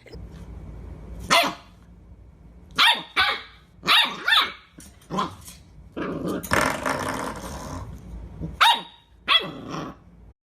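A dog barking and growling: about eight short, sharp barks spread out, with a longer rough growling stretch around the middle.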